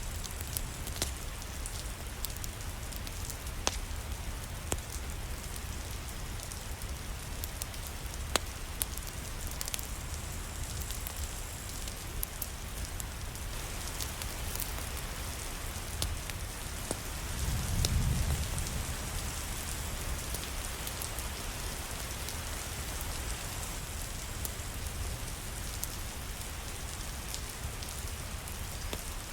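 Steady rain with scattered sharp ticks of drops. A low rumble swells and fades about eighteen seconds in.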